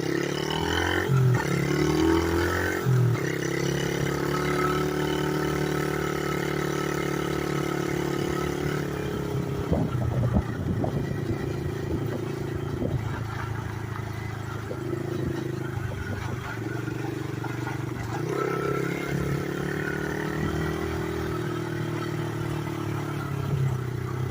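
Pit-bike engine on a home-built three-wheeler running while ridden, the revs rising and falling over the first few seconds and then holding fairly steady. Rattles and knocks come through around ten to thirteen seconds in.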